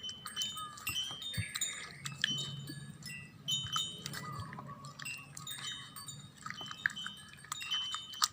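Wind chimes tinkling: many short, high ringing notes overlapping at a few repeated pitches, with a faint low hum for a few seconds in the middle.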